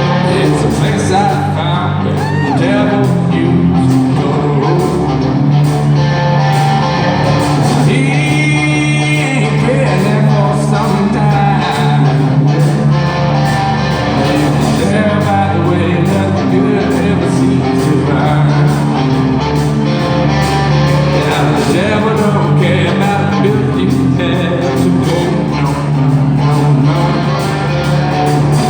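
Live rock band playing loud, with a singer's voice and electric guitar over bass and drums.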